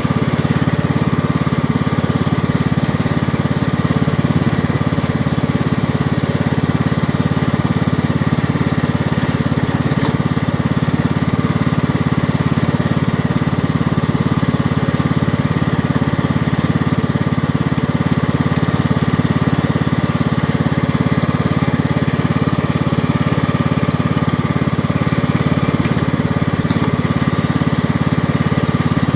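John Deere 18 hp, 540 cc lawn tractor engine running steadily at an even pace while the tractor moves slowly, with a thin steady whine above the engine.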